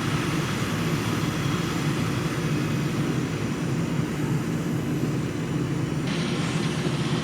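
Heavy vehicle engine running steadily with a low, even drone as the delivery truck pulls forward from under the lifted machine.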